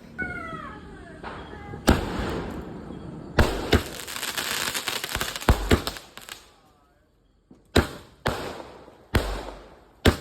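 A 30-shot firework cake firing: sharp bangs at uneven intervals, with a stretch of dense crackling in the middle. Near the start there are a few faint falling whistles before the first bang.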